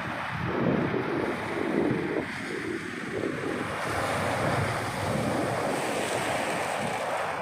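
Sea surf washing on the shore with gusty wind buffeting the microphone; the hiss of the surf grows brighter about halfway through.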